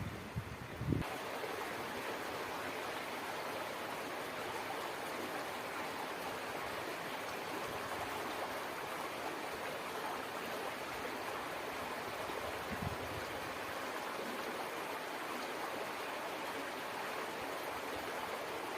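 A stream flowing with a steady rush of water. Wind buffets the microphone with a low rumble for about the first second.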